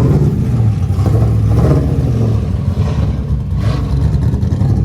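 Car engine running loudly close by, a deep steady rumble that swells slightly for a moment about a second and a half in.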